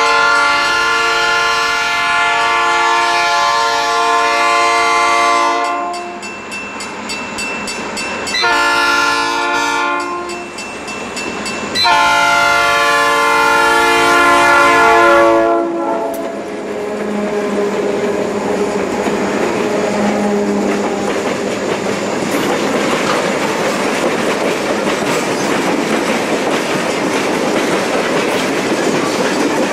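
Bessemer & Lake Erie diesel locomotives sounding a multi-chime air horn in three blasts, long, short, long, as they approach. After that the engines and a string of tank cars roll close past, a steady rumble and clatter of wheels on the rails.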